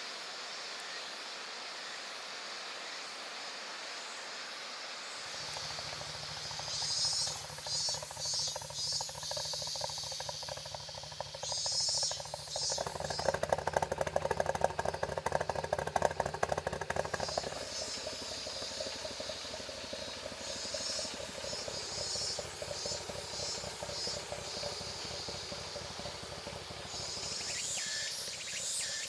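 Cicadas buzzing in loud waves over a steady hiss, with a Toyota AE86's four-cylinder engine coming in low about five seconds in and running with a faster, louder pulsing from about thirteen to seventeen seconds.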